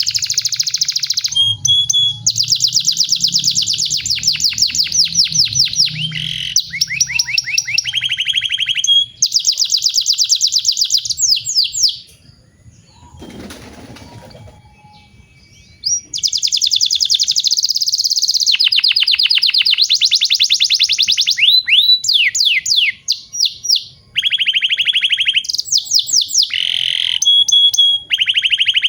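Male domestic canary singing long rolling trills: blocks of fast repeated notes at several pitches, one after another, broken by a pause of about four seconds midway.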